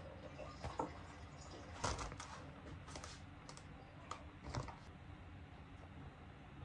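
Scattered light clicks and taps at an irregular pace, the sharpest about two seconds in, over a faint steady room background.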